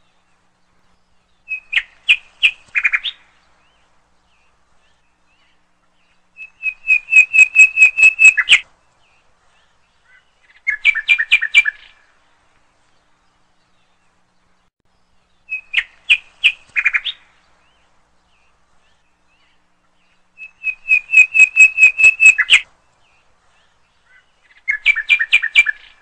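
Bird chirping in bursts of rapid, evenly spaced notes: three short trilled phrases, then the same three again about fourteen seconds later, with dead silence between, like a looped recording.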